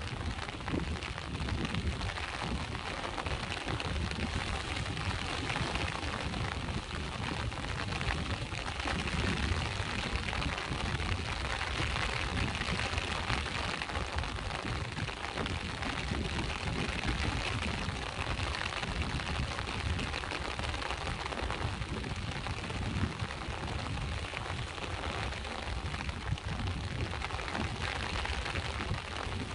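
Steady rain falling, over a continuous low rumble of sea waves.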